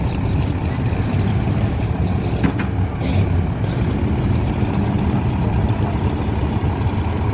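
A classic vehicle's engine running low and steady as it pulls away, with one short click about two and a half seconds in.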